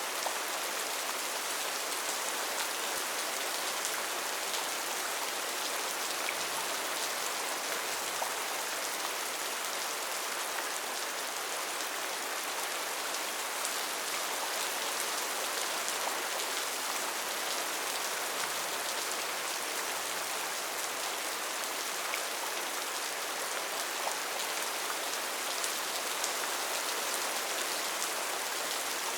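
Steady heavy rain falling on rainforest foliage, an even hiss with faint scattered drop ticks.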